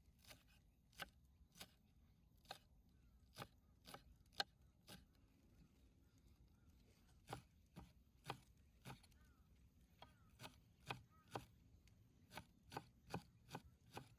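Knife chopping food on a cutting board: sharp, irregular strokes with a short pause near the middle.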